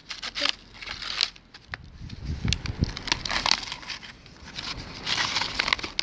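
Plastic bottle being crushed and folded by hand, crackling in irregular bursts.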